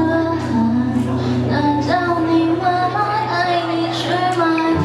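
Live band song: a female vocalist singing a melody over a sustained guitar chord, with a few drum and cymbal hits.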